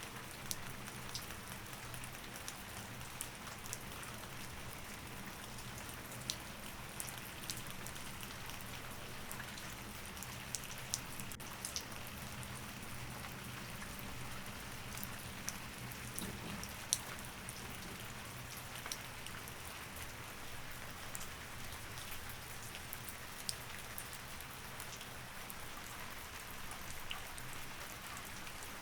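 Steady rain falling, an even hiss with scattered sharp ticks, over a faint low steady hum.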